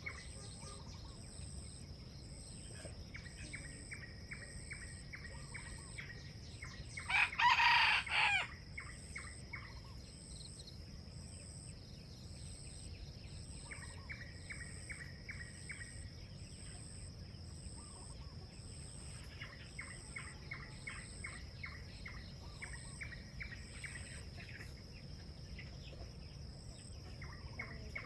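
A rooster crows once, about seven seconds in, a short crow of about a second and a half. Behind it runs a steady high insect drone with repeated trains of rapid clicking chirps.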